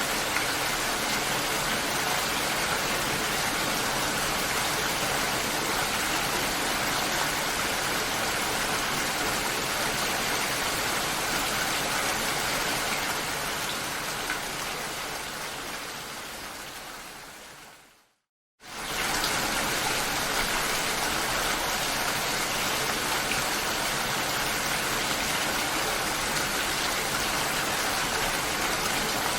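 Steady rain falling, an even hiss of drops. About two-thirds of the way through it fades out to a moment of silence, then comes back abruptly at full level, as at the join of a looped recording.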